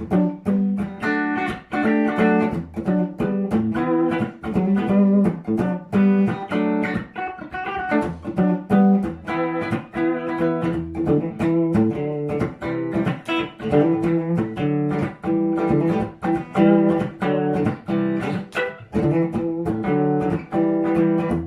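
A guitar played alone, a rhythmic chord pattern of quick, even strokes: the instrumental intro of a song, before the vocals come in.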